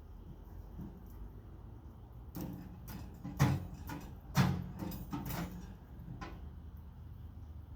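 A run of knocks and clunks as metal parts are handled and set down on a workbench, the two loudest about a second apart near the middle, over a low steady hum.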